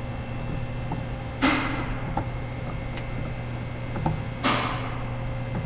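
Two short rasping noises about three seconds apart, with a few faint clicks between them, as a plastic coolant temperature sensor is worked loose from an engine water pump. A low steady hum runs underneath.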